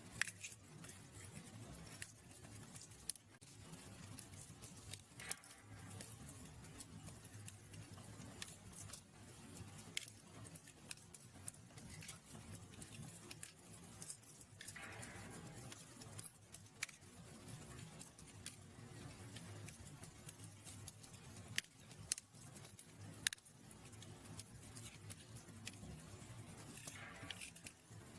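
Fireplace fire crackling: sharp pops and snaps at irregular intervals over a low, soft rumble of the flames, with a brief hiss about halfway through and again near the end.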